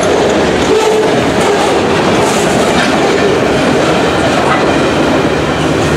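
Freight train cars rolling past close by, their steel wheels running on the rails in a steady, loud rumble.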